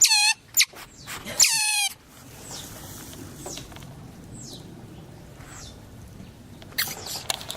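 Asian small-clawed otters making high-pitched squeaking calls. There are two loud squeaks in the first two seconds, each dropping in pitch at the end, then faint chirps about once a second, and louder squeaks again near the end.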